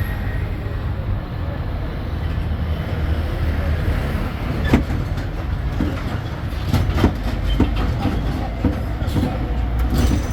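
Tourist road train on the move, heard from aboard: a steady low rumble of its engine and wheels, with sharp rattles and knocks from the carriages over the road surface, several of them from about halfway through.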